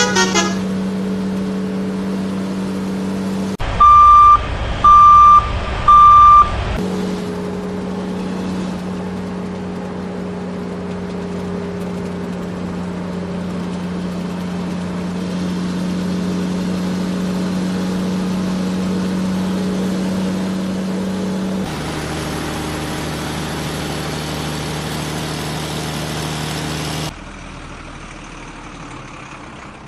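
A vehicle engine running steadily, with three loud reversing beeps about a second apart a few seconds in. The engine sound shifts about two-thirds of the way through and turns much quieter near the end.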